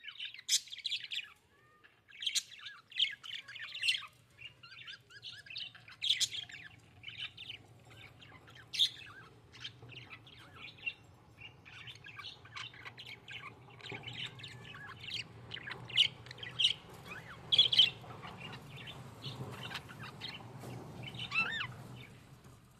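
Budgerigars chirping and chattering: a continuous run of quick, high chirps with a few short squawks and warbles. A faint low hum sits underneath from about six seconds in.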